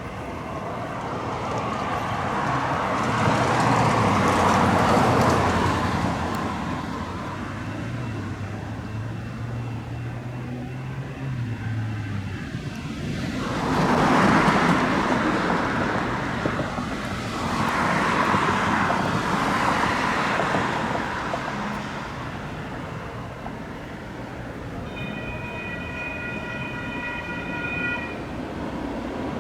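Light rail train running past: repeated swells of wheel and running noise, with a low motor hum that shifts in pitch. Near the end comes a steady horn blast of about three seconds.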